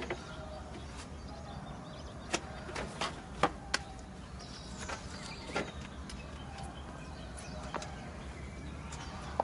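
Scattered sharp clicks and knocks, a few at a time with gaps between, of tools and metal parts being handled while a broken-down car is worked on, over steady low background noise.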